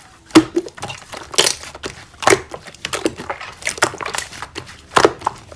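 Slime being pressed and squeezed by hand, with irregular crackling and crunchy popping sounds.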